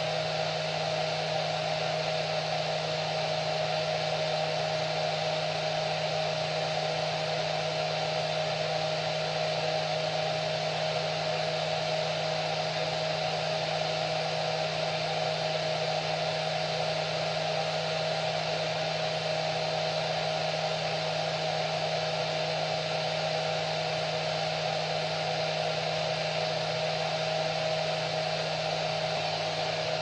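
Hair dryer running steadily, an even rushing blow with a constant hum and whine.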